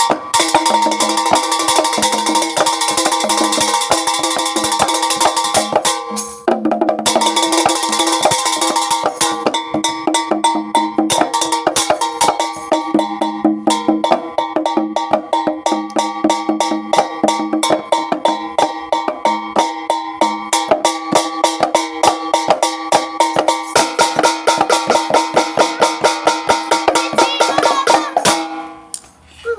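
Jaranan dance music: rapid, dense drum and percussion strikes over held pitched tones, with a brief dip about six seconds in, stopping near the end.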